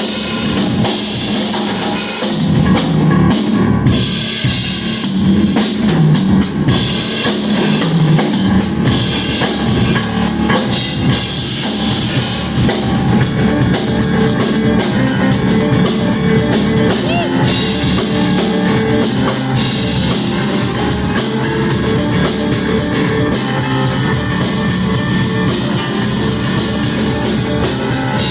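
Rock band playing live at full volume, the drum kit prominent with electric guitar. The playing gets denser and more evenly driving after about twelve seconds.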